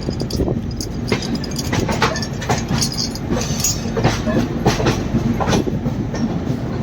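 Passenger train running: a steady low rumble of the coach with irregular clacks and knocks of the wheels over rail joints.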